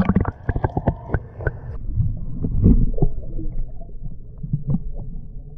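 Handling noise in a kayak as a caught largemouth bass is let back into the water: a quick run of clicks and knocks in the first couple of seconds, then scattered low thumps and rumbling.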